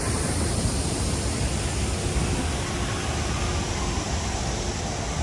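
Steady low rumble with an even hiss over it, the running noise of a vehicle.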